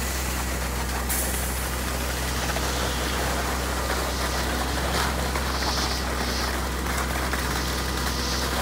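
Concrete truck's engine idling steadily, a constant low drone.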